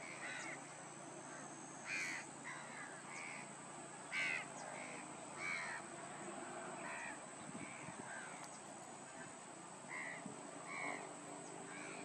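Short, harsh, cawing bird calls, repeated every second or two at uneven intervals over a steady high-pitched tone and wetland hiss.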